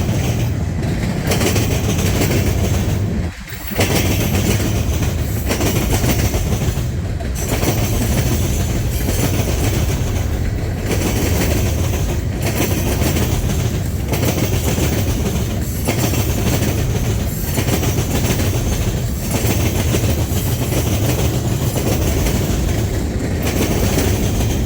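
Freight train rolling past at close range: steady rumble of the cars with wheels clicking over the rail joints.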